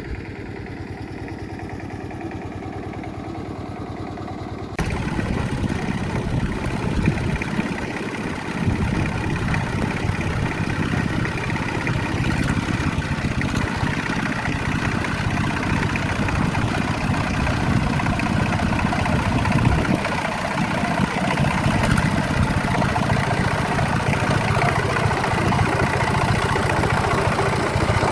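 A farm tiller's engine running steadily. About five seconds in it turns abruptly louder and rougher, then keeps running.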